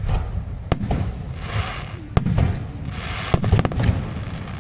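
Aerial fireworks display: single sharp bangs come about once a second over a continuous low rumble of booms, and a quick cluster of cracks follows a little past three seconds in.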